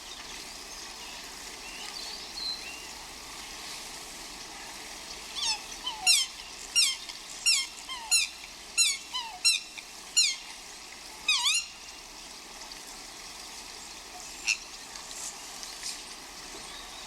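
A bird calling: a run of about nine short, sharply falling calls over roughly six seconds, then one fainter call a few seconds later, over a steady outdoor hiss.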